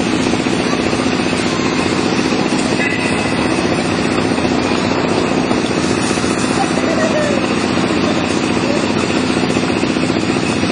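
A motor engine running steadily and loudly, with faint voices underneath.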